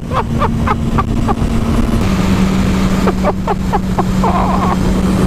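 Motorcycle engine running at a steady speed, its pitch stepping down once about two seconds in, with bursts of laughter early on and again near the middle.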